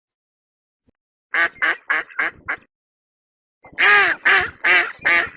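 Duck quacking: five quick quacks, a pause of about a second, then a louder run of quacks.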